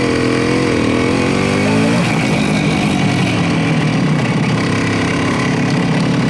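Motorcycle engine running while riding, its pitch rising and falling over the first couple of seconds, then holding steady.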